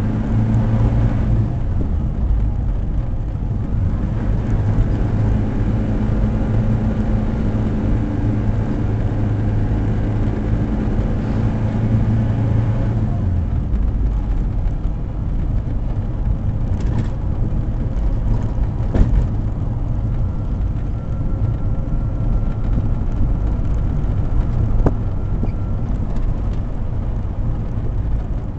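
SAAB 96 V4 engine running under way, heard from inside the cabin along with tyre and wind noise. About 13 seconds in, the engine note drops away as the car freewheels off the throttle, leaving mostly road and wind noise with a couple of light knocks.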